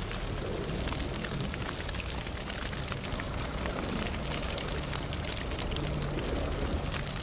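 Campfire burning, with many small crackles and pops over a steady low rush.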